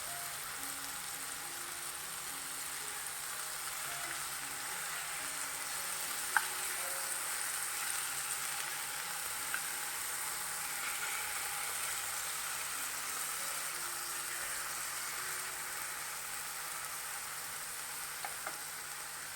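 Marinated chicken tikka pieces sizzling steadily in a very hot pan, with a few sharp clicks of contact with the pan.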